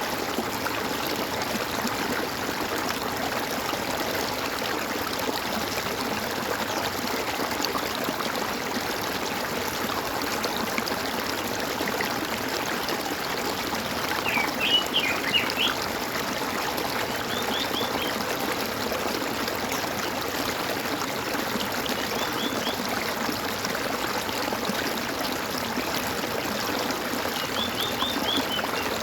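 Water gurgling and trickling steadily, with a few short runs of quick, high bird chirps over it, the loudest about halfway through.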